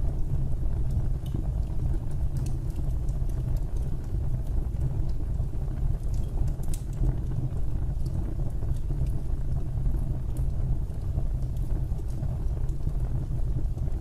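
Fireplace fire burning with a steady low rumble and scattered sharp crackles and pops at irregular moments.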